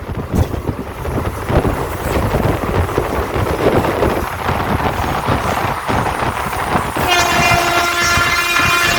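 Passenger train running with a steady rumble of wheels on the track. About seven seconds in, the locomotive's horn starts, one held note that carries on to the end.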